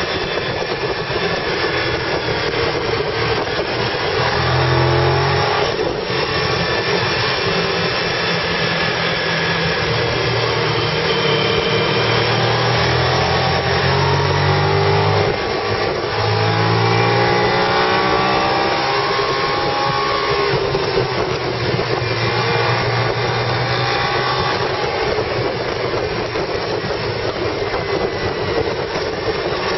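Car engine and road noise heard from inside the cabin while driving, the engine pitch rising and falling with road speed. The transmission is stuck in third gear.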